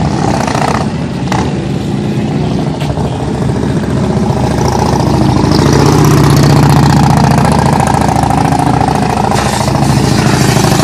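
Harley-Davidson police motorcycles' V-twin engines running at low speed during slow manoeuvres, one swelling louder and rising in pitch around the middle, then easing off.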